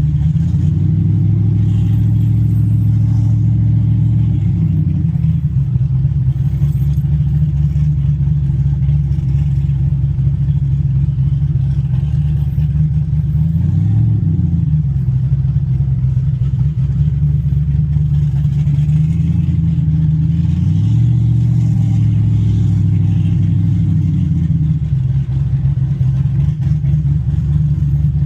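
Car engine running at low revs while the car is driven. The note rises and falls: the revs pick up near the start, briefly about halfway through, and again for a few seconds in the later part.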